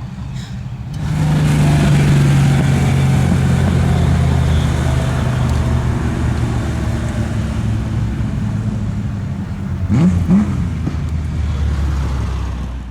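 Porsche 904 FF Special's air-cooled flat-six engine running hard under acceleration. It gets suddenly louder about a second in, has a brief rise and fall in pitch near ten seconds, and fades at the very end.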